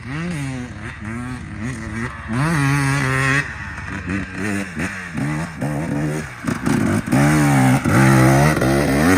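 Dirt bike engine revving up and down again and again as the throttle is opened and closed on the trail, with longer, louder pulls about two and a half seconds in and in the last couple of seconds.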